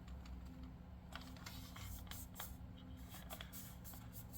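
Faint rubbing and scratching with light clicks from fingers handling a plastic H0 model railway car, rubbing at a smudge on its roof, over a steady low hum.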